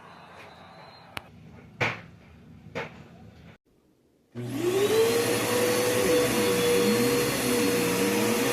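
A few faint clicks and two knocks, then a Bissell PowerForce Bagless upright vacuum cleaner with a 10-amp motor switched on about four seconds in. Its motor spins up within a second and then runs steadily and loudly with a high, steady tone, over a lower tone that wavers up and down.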